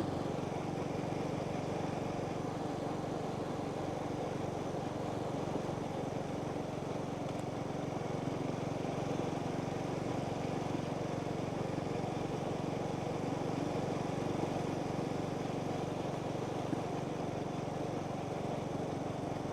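Motorbike engine running steadily at an even cruising speed, heard from the rider's seat with road and wind noise.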